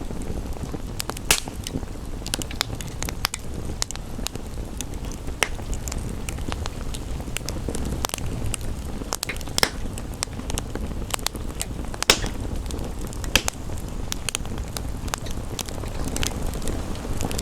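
Wood fire in a fireplace crackling, with irregular sharp pops a few times a second over a steady background of rain.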